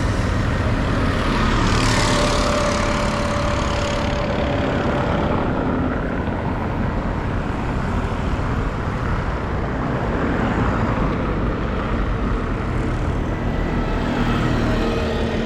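City street traffic: engines running in a steady low rumble, with one vehicle passing close about two seconds in.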